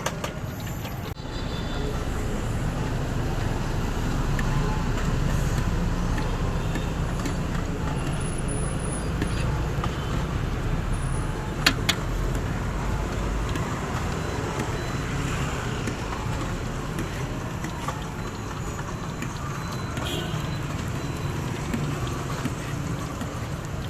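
Street traffic noise, a steady rumble of passing road vehicles, with one sharp click about twelve seconds in.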